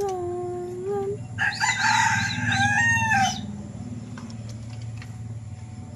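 A rooster crowing once, a harsh call of about two seconds starting about a second and a half in.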